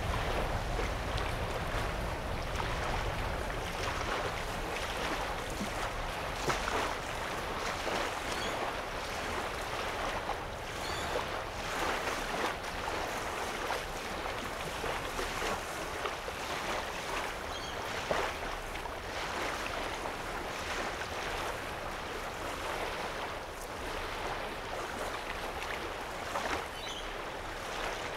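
Small lake waves lapping and washing on a sandy shoreline, in soft, irregular surges every second or two over a steady wash of water. A low rumble of wind on the microphone sits underneath.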